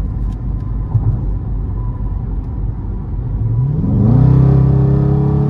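5.7-litre HEMI V8 of a Mopar R/T running at a steady cruise, then revving up under acceleration about three and a half seconds in, its note climbing and holding higher and louder.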